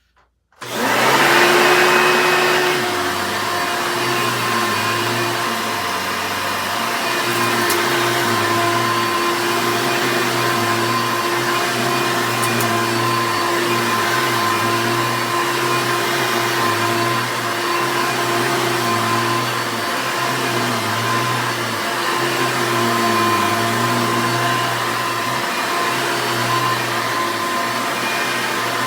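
Hoover Elite upright vacuum cleaner, fitted with a Hoover runabout motor whose bearings were greased with Vaseline, switched on about half a second in and running steadily with a constant whine. Old Hoovers are mostly loud.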